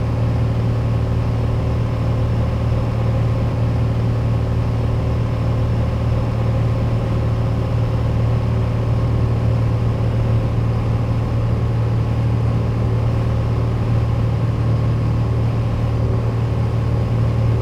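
Piper Dakota's six-cylinder Lycoming O-540 engine and propeller droning steadily at a constant power setting in flight.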